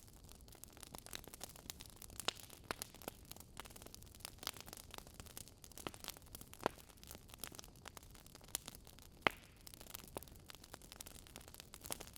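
Wood fire crackling: burning logs give irregular sharp pops and snaps over a faint steady hiss, the loudest pop about nine seconds in.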